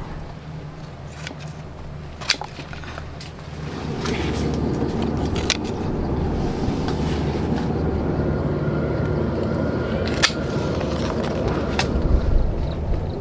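A motor running steadily, getting louder about four seconds in, with a few sharp clicks over it.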